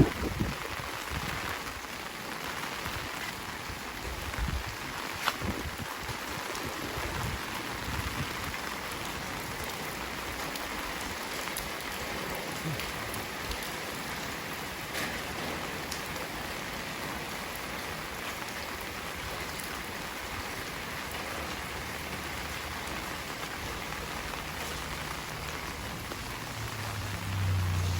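Heavy rain falling in a steady hiss, with scattered sharp drip taps over the first several seconds. A low hum comes in near the end.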